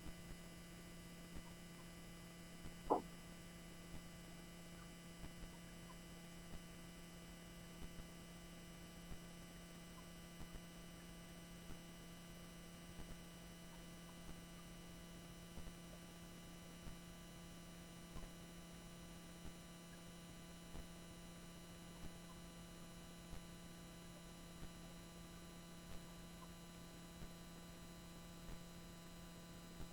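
Near silence: a steady low electrical hum, with faint ticks repeating about every second and a quarter and one brief louder sound about three seconds in.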